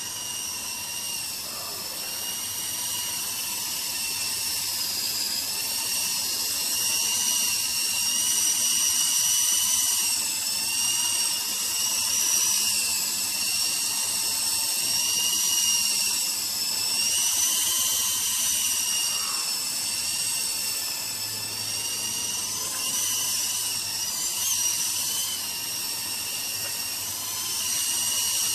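Double Horse 9053 radio-controlled toy helicopter's electric motors and gears whining at a high pitch, recorded close up by a camera on the helicopter itself; the pitch keeps wavering up and down.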